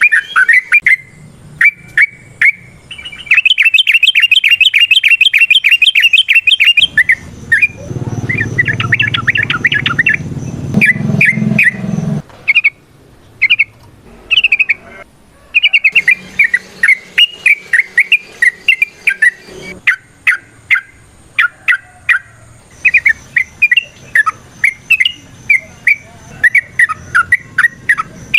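Yellow-vented bulbul (trucukan) singing loudly in quick chattering phrases, with a fast even trill a few seconds in. A low rumble sits under the song for a few seconds midway.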